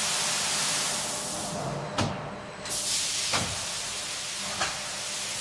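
A steady hiss with a sharp knock about two seconds in and a couple of softer knocks later.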